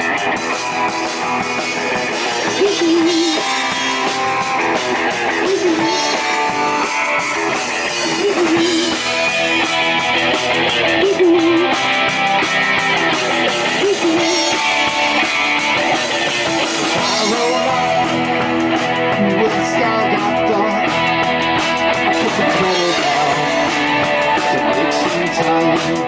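Live rock band playing an instrumental break: a lead guitar line with bending notes over drum kit and the rest of the band, with no singing.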